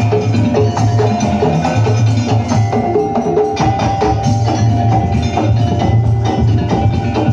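Daul ensemble music: wooden percussion and drums beating a busy, steady rhythm over a heavy bass, with a melody line on top.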